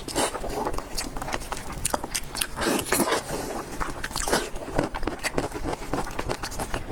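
A person biting and chewing crunchy food: irregular crisp crunches and clicks.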